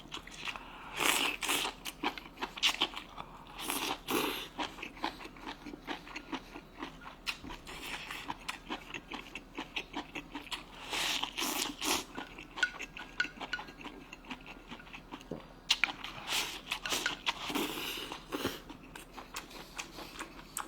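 A person chewing and biting hotpot food close to the microphone: wet, irregular mouth clicks with short louder swells of noise every few seconds.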